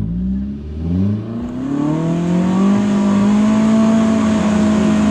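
Side-by-side UTV engine revving under load on a rock climb. There are a couple of short blips, then the revs climb over about two seconds and hold high and steady.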